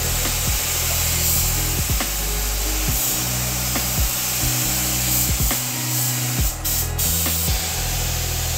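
Air spray gun hissing steadily as clear coat is sprayed, under background music with a low bass line and a regular beat. The hiss cuts off suddenly at the end.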